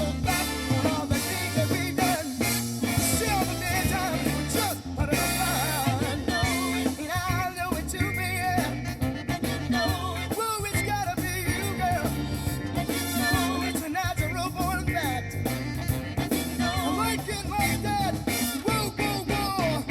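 A funk song with singing, bass and drums playing through a car audio system's speakers, heard inside the car.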